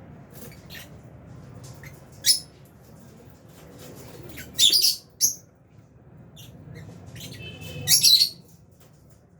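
Lovebirds calling with short, shrill chirps and squawks. The calls come scattered and single, with the loudest ones about two seconds in, around five seconds in, and a burst near the end.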